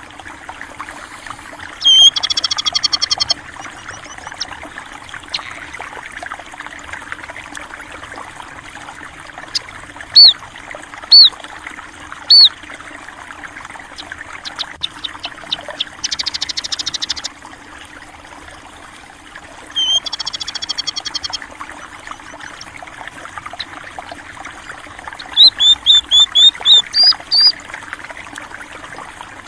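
A small stream trickling and flowing steadily, with small songbirds calling over it: a few rapid trills, three single sharp downward-swept notes around the middle, and a quick run of about seven notes near the end.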